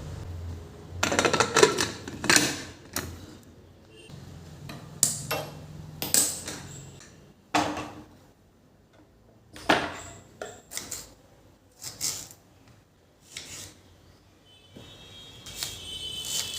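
Kitchen dishes and utensils clattering as they are handled: a string of irregular clinks and knocks with short pauses between them.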